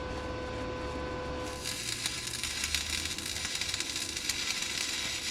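A steady electrical hum, then about one and a half seconds in a welding arc strikes and crackles and sizzles steadily as a stabilizer leg is welded to the steel trailer frame.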